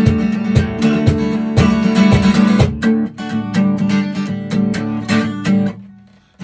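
Acoustic guitar strumming a rhythm, the chords dying away to a short silence near the end before the strumming starts again.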